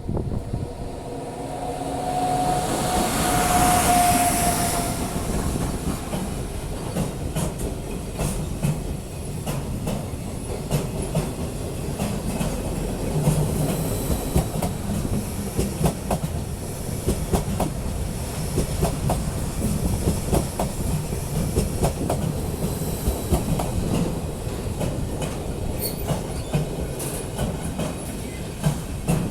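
Car-carrier freight train rolling slowly past, its wheels clicking irregularly over rail joints, with some wheel squeal. In the first few seconds there is a louder rushing swell with a steady tone that fades.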